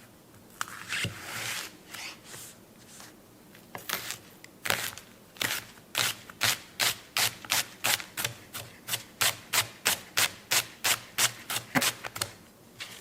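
A series of short scraping or rubbing strokes, few at first, then a steady run of about two to three a second that stops near the end.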